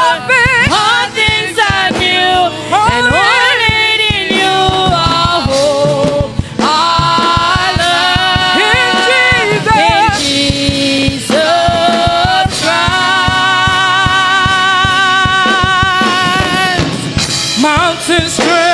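Gospel worship song: a lead singer sings long, drawn-out notes with vibrato over instrumental accompaniment.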